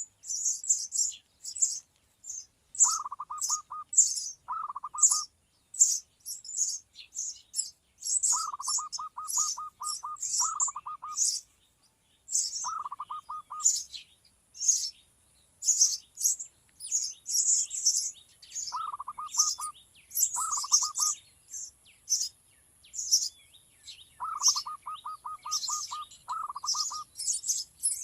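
Small birds chirping rapidly and constantly in short high notes. Every few seconds a lower call comes in as a quick stuttering run of repeated notes, about ten a second, for under a second.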